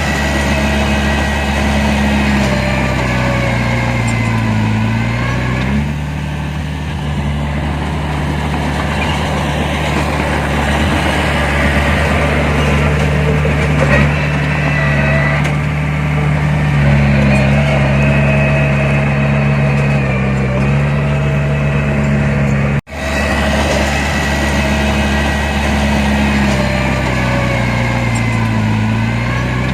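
Heavy diesel engine of earth-moving machinery running steadily, its pitch dipping and picking up again now and then as the load changes. The sound drops out for an instant about three quarters of the way through.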